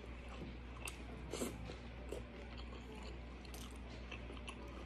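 A person chewing a mouthful of curry and rice eaten by hand, with scattered small clicks of mouth and fingers, one a little louder about a second and a half in, over a low steady hum.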